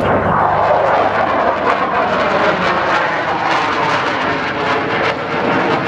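Engine noise of a display aircraft flying past, loud and steady, its pitch slowly falling as it goes by.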